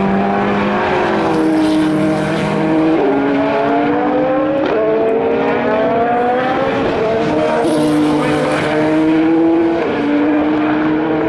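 Race car engines accelerating hard up through the gears, the pitch climbing and dropping back at each upshift, about three times near the middle. Overlapping engine notes suggest more than one car passing.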